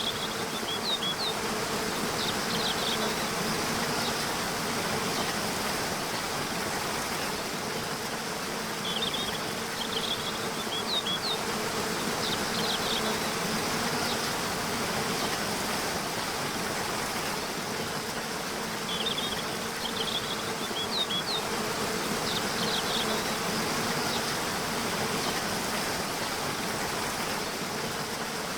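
Waterfall rushing steadily, with a steady low hum underneath. A small bird chirps in short bursts of quick high notes about every ten seconds, three times.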